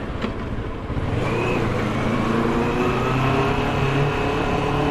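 Motorcycle engine under way. It eases off briefly near the start, with a single click, then pulls again with its pitch climbing steadily, over a steady rushing noise.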